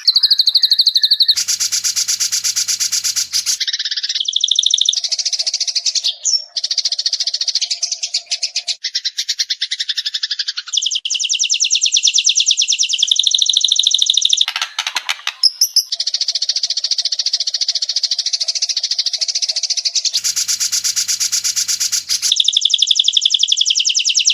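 White-rumped shama song on an edited training recording: long runs of very rapid, high-pitched trilled notes, each run lasting a few seconds and running straight into the next. A harsh rattling chatter comes twice, once near the start and once near the end.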